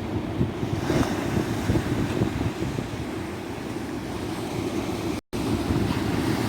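Tropical ocean surf washing steadily onto a beach, with wind buffeting the microphone. About five seconds in, the sound drops out completely for a split second.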